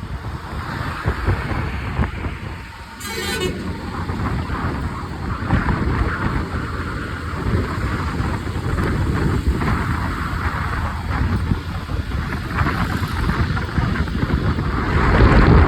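Wind rushing over the microphone on a moving motorbike, with steady engine and road noise. A brief high-pitched sound about three seconds in.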